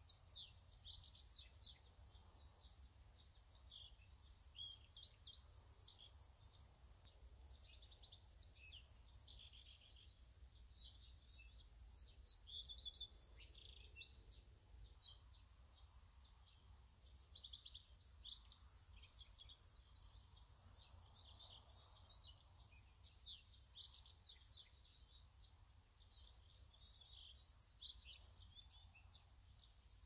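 Small songbirds singing, a steady stream of quick, high chirps and short trills, over a faint low wind rumble.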